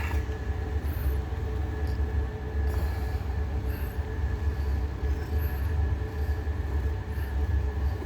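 A steady low mechanical rumble with a faint steady hum over it, and faint short high chirps now and then.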